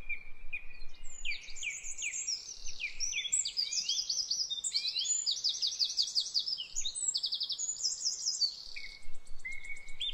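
Songbirds singing: a run of repeated short chirps, then many overlapping chirps and fast trills.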